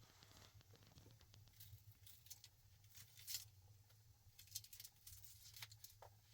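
Near silence with faint, scattered clicks and light rustling of something being handled, a few slightly sharper clicks around the middle, over a low steady hum.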